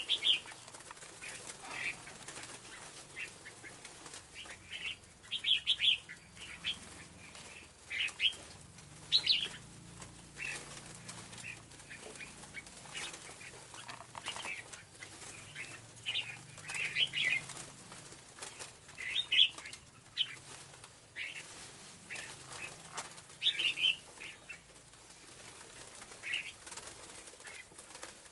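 Scarlet-backed flowerpecker calls: short, sharp, high chirps repeated irregularly, about one a second, some in quick clusters.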